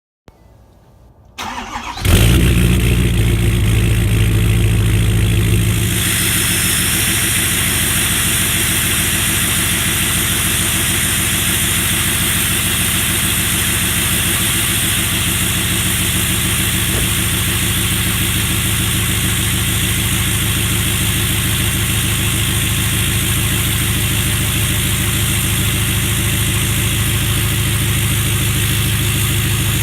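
Ford 6.7 Power Stroke V8 turbodiesel in a 2016 F-250 Super Duty, EGR and DPF deleted, cold-starting after ten days sitting in below-freezing weather. A brief crank about a second and a half in, then it catches at once and runs heavier for about four seconds before settling to a steady idle. The idle is kind of loud.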